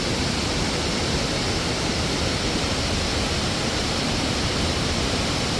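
Steady rush of a waterfall: even, continuous falling-water noise.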